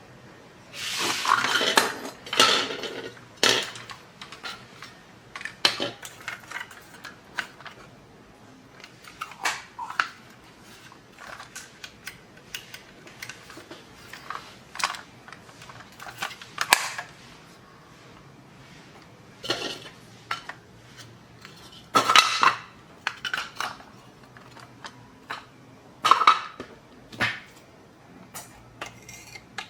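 Irregular clicks, taps and clatters of small hard objects being handled, like plastic toy parts and small tools knocking together. There are louder clusters about a second in and again in the last third.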